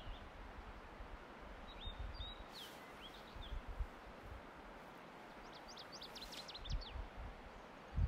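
Faint high chirps and short whistled calls of small birds: a few about two to three seconds in, then a quick run of them about six seconds in. Under them is a steady outdoor hiss with occasional low rumbles.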